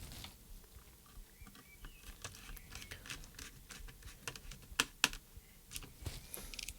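Faint, scattered small clicks, taps and scrapes of hands and a small tool working on the plastic case and parts of a handheld RC radio transmitter during reassembly, with two sharper clicks in quick succession about five seconds in.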